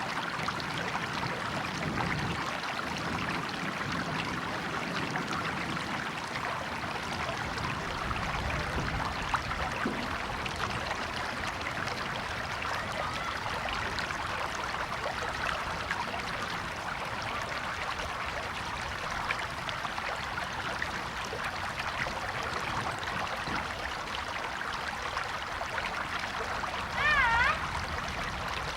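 A river's water running steadily over rocks, a constant rushing and trickling. Near the end a short, louder, wavering whistle-like call cuts in.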